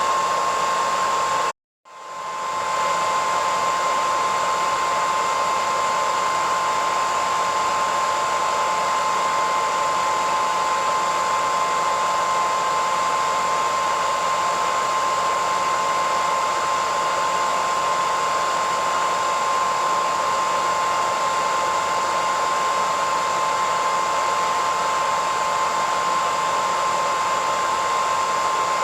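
Hair dryer running steadily: an even rushing blow with a strong high whine. About a second and a half in, it cuts out completely for half a second and then fades back up over about a second.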